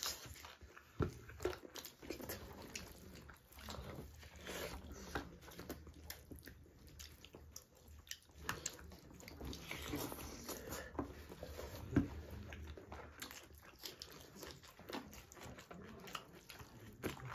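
Two people eating chicken drumsticks and rice with their hands: chewing and mouth smacking, with irregular short sharp clicks.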